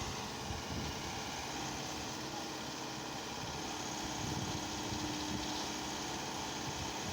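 An engine idling steadily, a constant hum with no revving.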